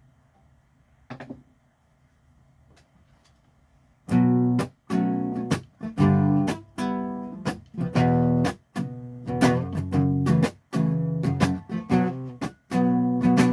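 Near silence with one faint click about a second in, then about four seconds in an acoustic guitar starts strumming chords in a steady rhythm, with short stops between the strums.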